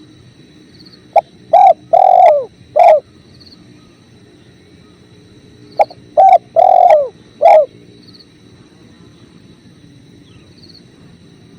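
Spotted dove (tekukur) cooing: two song phrases, each a short clipped note followed by three fuller, falling coos. A faint steady rush of river water runs beneath.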